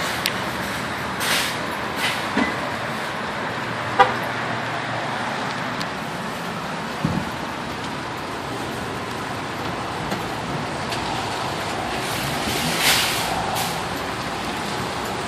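Parking-lot traffic noise: a steady hum of vehicles, broken by a few short knocks and thumps. The sharpest knock comes about four seconds in and a low thump near seven seconds.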